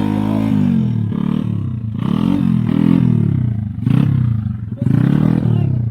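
Motorcycle engine revved up and let down again and again, about six rising and falling rev swells.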